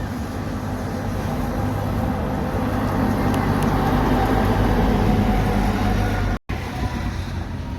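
Road truck passing by: engine hum and tyre noise grow to their loudest about five seconds in. Just over six seconds in, the sound cuts out for a moment and then the traffic noise carries on.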